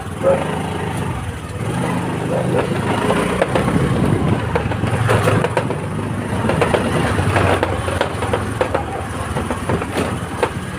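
Road traffic: vehicle engines running under a steady rumble, with scattered knocks and clatter.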